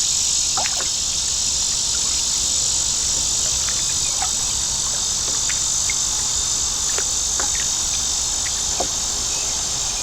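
Steady high-pitched insect chorus, with a few brief faint chirps scattered through it.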